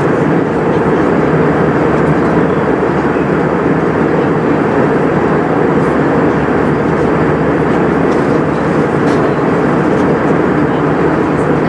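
Steady engine and airflow noise inside the passenger cabin of an Airbus A320, even and unbroken throughout.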